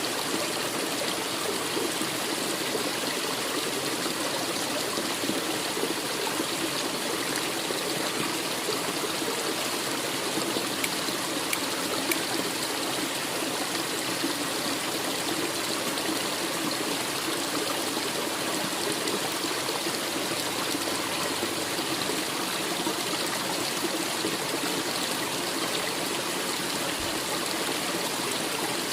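Forest stream running steadily, water trickling and splashing over rocks.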